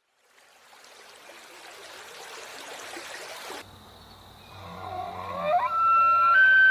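About three seconds of steady rushing background noise that cuts off, then an elephant trumpeting: the call swoops up in pitch and holds as one long, loud, steady trumpet blast.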